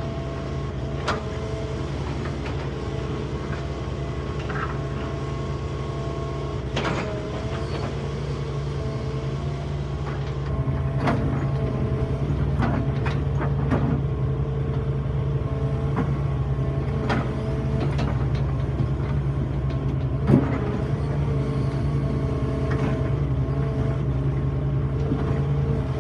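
Excavator's diesel engine running steadily with a whine from the hydraulics, working harder from about ten seconds in. Scattered knocks and clanks of rock being handled, the loudest about twenty seconds in.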